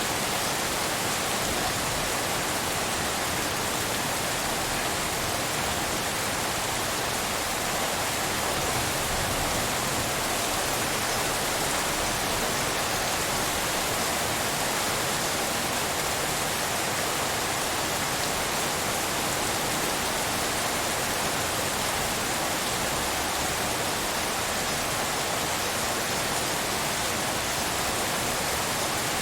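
Steady rainfall blended with pink noise: an even, unbroken hiss with no individual drops or thunder standing out.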